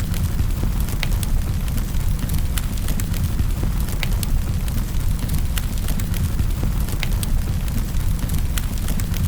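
Wood fire crackling in a fireplace: a steady deep rumble of burning with frequent sharp, irregular pops and snaps.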